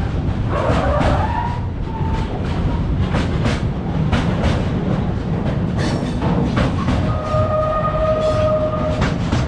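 Freight train rolling past: a steady low rumble with the wheels clattering over rail joints. A wavering wheel squeal sounds about a second in, and a steady squealing tone from about seven seconds until just before the end.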